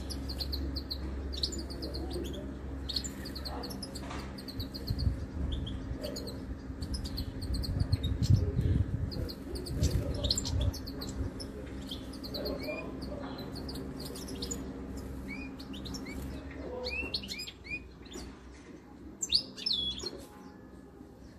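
Small songbirds chirping in quick runs of high notes, with a few louder downslurred calls near the end, over a low steady hum.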